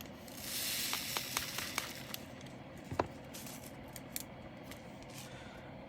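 Small plastic bags rustling, with light clicks from handling loose diamond-painting resin drills. The rustle and a run of ticks come in the first couple of seconds, a sharper single click about three seconds in, then a few faint ticks.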